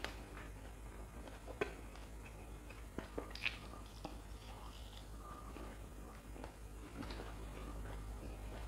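Close-miked chewing and biting of a fried lentil fritter (vade), with wet mouth sounds and scattered sharp clicks, the loudest a few in the first half.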